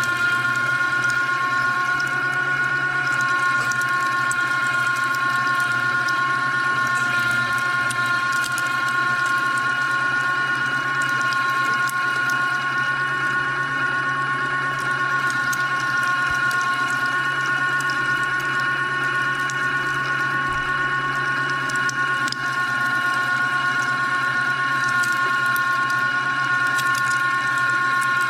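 LEM BigBite #8 electric meat grinder with a half-horsepower motor running steadily with a constant whine, grinding strips of beef roast through the coarse plate.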